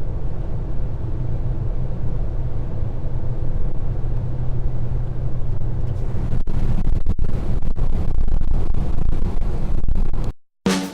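Steady low road and engine drone inside a moving Opel Corsa at motorway speed, with irregular thumps from about six seconds in. The sound drops out briefly near the end, and drum-led music begins.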